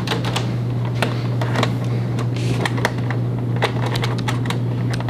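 Scattered light clicks and taps from hands handling a monitor and its stand while fitting the mounting screws into the monitor's back by hand, over a steady low hum.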